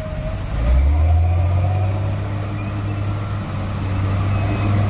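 Hindustan tractor's diesel engine running under load, its low hum getting louder about a second in and then holding steady.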